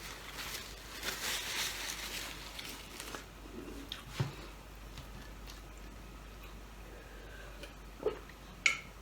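Close-up eating sounds: crackly chewing and crunching of food for about three seconds, then quieter, with a few sharp light knocks, the loudest near the end.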